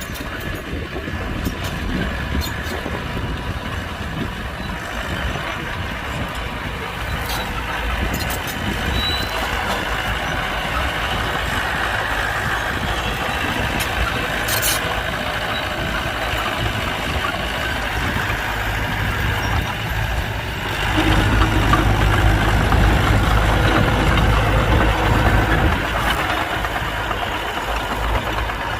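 Heavy machinery engine running steadily, with a few brief clicks or knocks. About two-thirds of the way through it grows clearly louder and deeper, as a machine works harder or comes closer.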